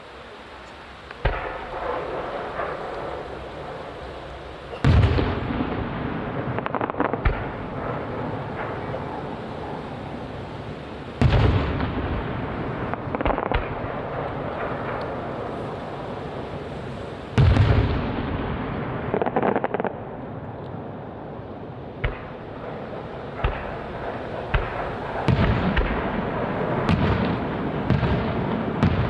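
Aerial firework shells bursting: a sharp bang about a second in, then heavy booms roughly every six seconds, each trailing off with crackle and echo, and a quicker run of smaller bangs near the end.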